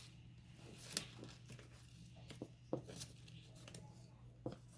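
Faint handling of paper craft pieces: soft paper rustling with three sharp little clicks or taps spread through, over a low steady hum.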